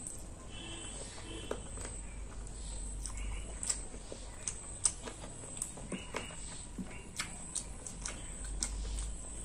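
Close-up eating sounds: chewing with wet mouth clicks and smacks at irregular intervals.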